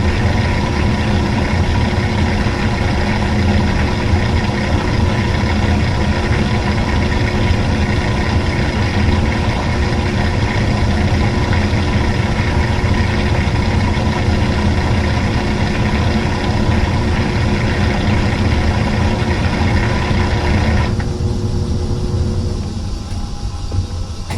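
Washing machine running with a steady motor hum and many constant tones; the higher part of the sound cuts out about 21 seconds in.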